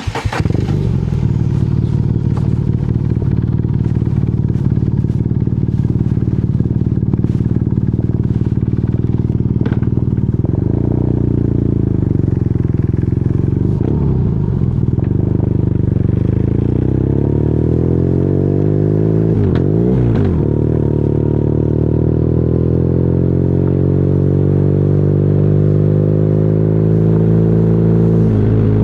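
BMW R nineT's air/oil-cooled boxer twin with an Akrapovic exhaust fires up right at the start and settles into a steady idle. There is a brief rev about twenty seconds in, then the engine note climbs slowly toward the end.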